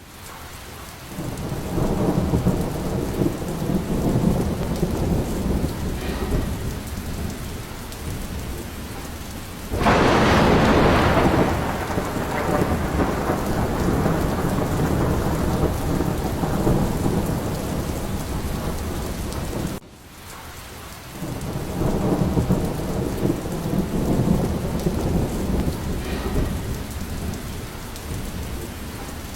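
Steady rain with rolling thunder rumbling underneath. About ten seconds in comes a sudden loud thunderclap that fades away slowly. Shortly after two-thirds of the way through, the sound dips briefly and the rain and rumbling build up again.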